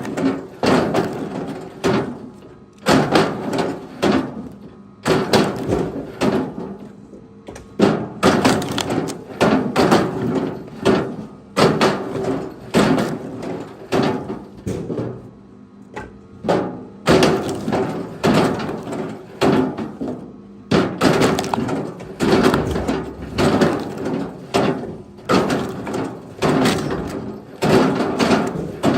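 Pieces of firewood clattering, with repeated irregular knocks about once or twice a second, each with a short ring.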